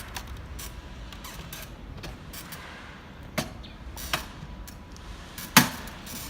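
M6 electric motorcycle riding on a test drive: a steady low rumble with a faint thin whine, broken by a few sharp knocks, the loudest about a second before the end.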